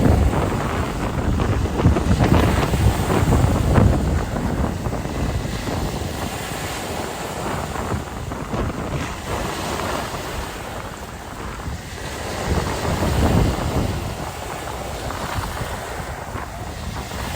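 Mediterranean sea waves washing ashore under strong wind, with gusts buffeting the microphone in low rumbles that swell in the first few seconds and again near the end.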